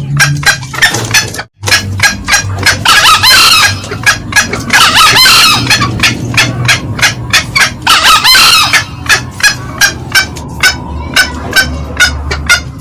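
Green junglefowl calling loudly: a fast run of short, sharp cackling clucks throughout, with three longer, shrill crowing calls about three, five and eight seconds in. The sound cuts out for a moment about one and a half seconds in.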